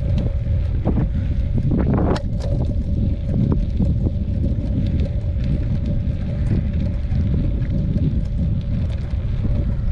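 Wind buffeting the microphone of a bicycle rider on the move, a steady low rumble with a faint steady whine under it and a few scattered clicks.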